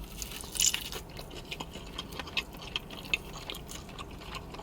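A person biting into tandoori chicken and chewing it, with a louder bite in the first second followed by irregular smacking and chewing clicks.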